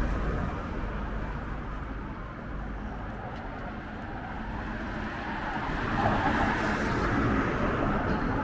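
Passing road traffic: a steady rumble that dips, then swells as a vehicle goes by about six seconds in.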